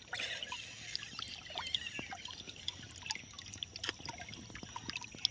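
Water trickling softly, with a scatter of small drips and light splashes.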